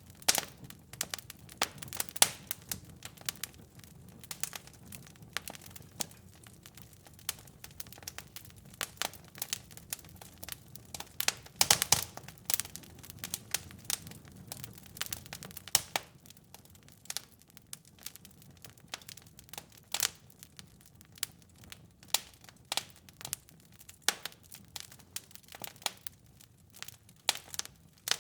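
Wood fire crackling, with irregular sharp pops and snaps over a soft low rumble. A cluster of louder pops comes about twelve seconds in, and the rumble fades out past the middle.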